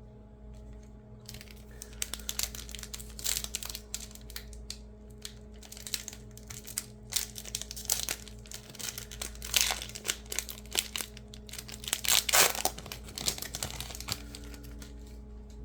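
Baseball card pack wrapper being torn open and crinkled by hand: irregular crackling starting about a second in, with the loudest bursts near the end.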